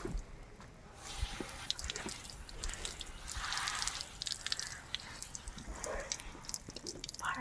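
Water dripping and splashing, with scattered small clicks and ticks, as a motorcycle is rinsed off; a short burst of splashing about halfway through.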